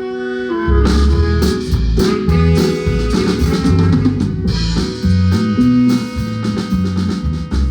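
Guatemalan marimba band playing live: a melody line of held notes, then under a second in the drum kit and bass come in and the full band plays on with steady drum beats.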